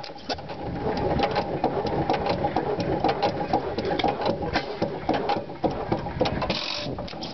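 10 hp Stover stationary gas engine running, a fast, busy clatter of mechanical clicks and knocks. A short hiss comes near the end.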